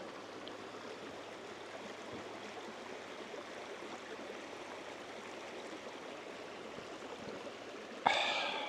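Steady rushing of a flowing stream. Near the end a sudden, loud ringing tone starts and begins to fade.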